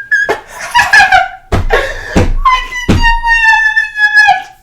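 A man's high-pitched squealing, held notes that waver and glide, with two thumps about a second and a half apart partway through.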